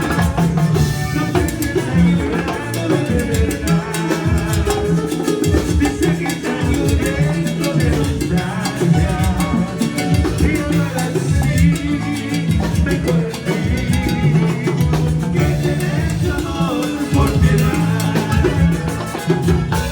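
Live band playing salsa-style Latin dance music, with drums and percussion over a steady bass line.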